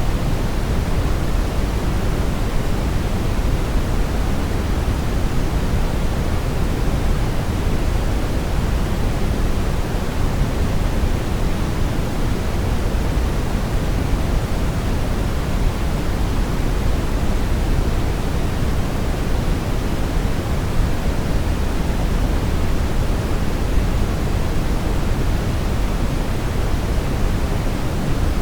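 Brown noise: a steady, even hiss weighted heavily toward the low end, like a deep rumble, with no changes or events.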